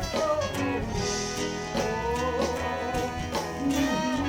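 Live band music: an instrumental stretch between sung lines, carried by strummed guitar over bass and drums.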